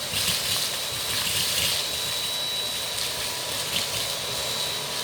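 Dyson V8 cordless stick vacuum running steadily with a high motor whine as it sucks up crushed chips.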